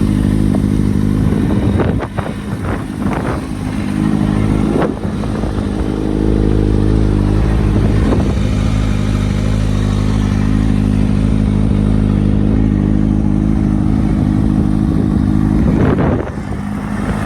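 2016 Kawasaki Ninja ZX-6R's 636 cc inline-four idling steadily, with short throttle blips: a quick run of revs about two seconds in, single revs later on, and another near the end.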